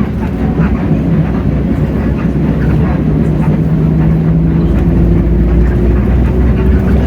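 Hino J08E-VN 7.7-litre diesel engine of a city bus heard from inside the cabin, a steady low drone under way. About halfway through, a higher tone comes in and slowly rises in pitch as the bus picks up speed.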